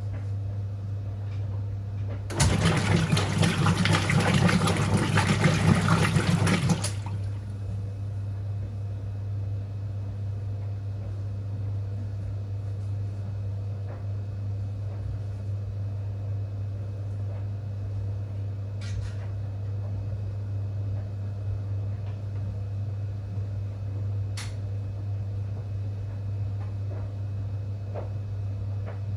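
Whirlpool top-loading washing machine: a burst of rushing water lasting about four seconds, a couple of seconds in, over a steady low hum that runs on after it.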